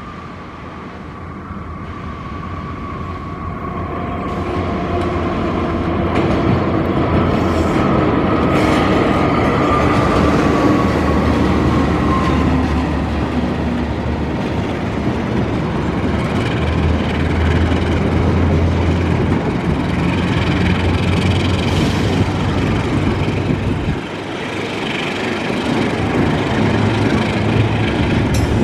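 Diesel-electric locomotive hauling a passenger train, approaching and passing close by. Its engine rumble grows louder over the first few seconds and a whine falls slowly in pitch as it goes past. The carriages then roll by at steady loudness.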